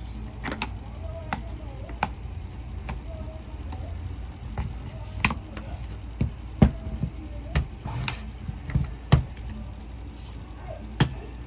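Irregular clicks and knocks of tools and parts against a Bosch angle grinder's housing as it is being taken apart, about eight to ten sharp strikes at uneven spacing.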